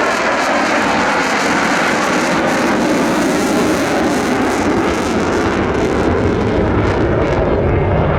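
Loud, steady jet noise from the single F135 engine of an F-35C fighter in flight, growing deeper near the end.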